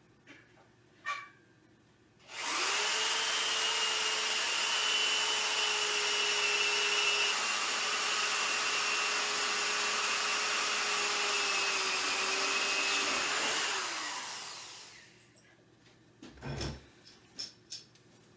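Electric drill pre-drilling a hole through 1/8-inch steel angle iron. The motor spins up, runs at a steady pitch for about twelve seconds with a slight drop under load, then winds down, followed by a few light knocks.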